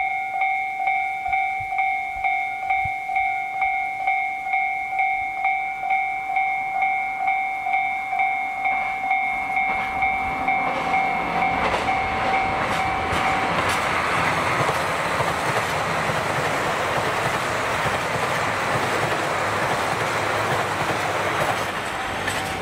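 An electronic railway warning bell rings about twice a second, then a diesel limited express train comes out of a tunnel and passes close by. From about ten seconds in its engines and wheels rise to a steady loud rush, and the bell stops partway through.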